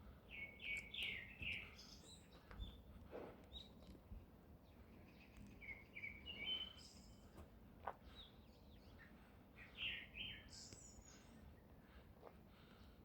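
Small birds chirping in the forest: three bursts of quick chirps a few seconds apart, with a few higher, thinner notes, over faint background noise.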